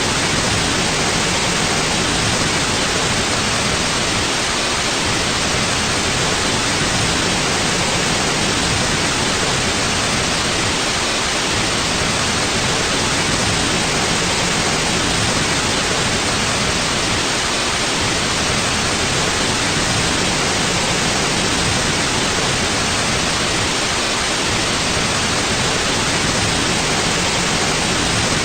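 Steady white noise for sleep: an even, unchanging hiss with no rhythm, breaks or changes.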